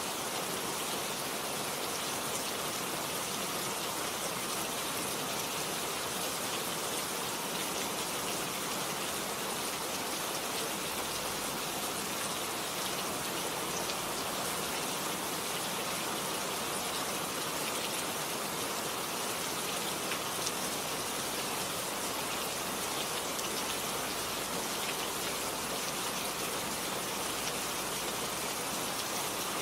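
Steady rainfall, an even hiss of rain with the patter of many drops striking surfaces.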